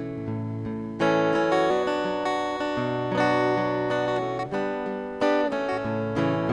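Acoustic guitar playing the instrumental intro of a song: chords strummed and left to ring, with fresh chords struck about a second in and again near the end.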